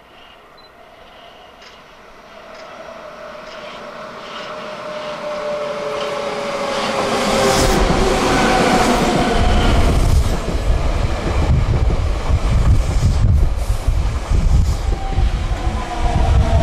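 Hankyu 8000 series electric train approaching and passing close by. Faint regular clicks from the rails grow into a loud rumble about seven seconds in, with a motor whine that falls gently in pitch.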